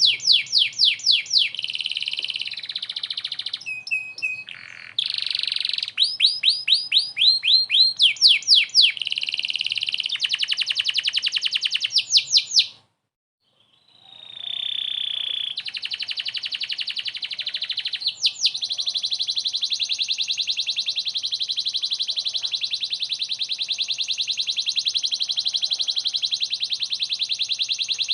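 Domestic canary singing: quick runs of repeated rising chirps and trills, a brief silence about halfway through, then one long, very fast, even trill.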